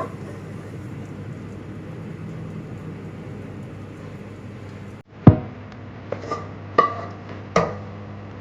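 Kitchenware clatter: one loud knock about five seconds in, then four quick clinks with a short ring, like a utensil against a pot or dish, over a steady low hum.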